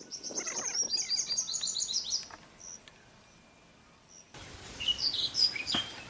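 Songbird singing a fast run of high, descending chirps for about two seconds, then more scattered bird chirps after a short lull. A single sharp knock comes near the end.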